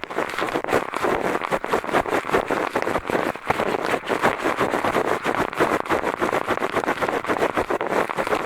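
Eyeglasses scratching and rubbing inside a binaural microphone's ear as ASMR ear cleaning: quick, continuous scratchy strokes with no pause.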